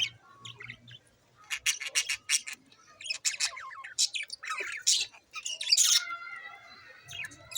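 Budgerigars chirping and squawking in a quick run of short, sharp calls, then a longer warbling call from about six seconds in.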